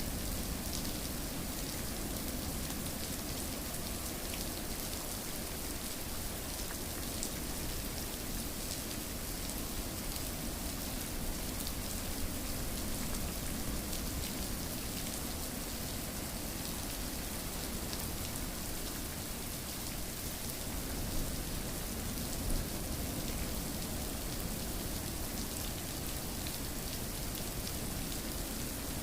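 Steady rain falling, with a dense patter of individual drops ticking over an even hiss.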